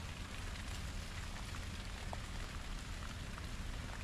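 Light steady drizzle pattering, with a few faint ticks of drops.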